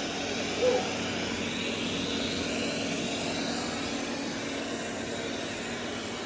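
Roborock robot vacuum running: the steady whir of its suction fan, with a low hum and a faint high whine.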